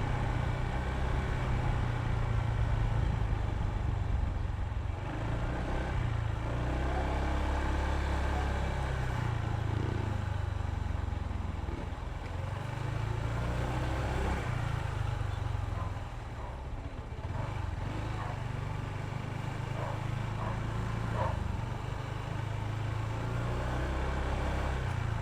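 Honda ADV160 scooter's single-cylinder engine running while being ridden, its low drone rising and falling as the speed changes, over road and wind noise.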